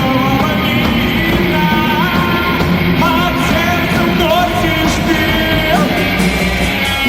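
Rock band playing live, with a melodic lead line over the band: held notes that bend up between pitches, then a slide down about six seconds in.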